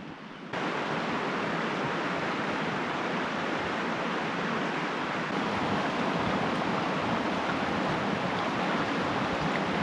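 Heavy rain pouring down as a steady hiss. It cuts in suddenly about half a second in, over a quieter hiss.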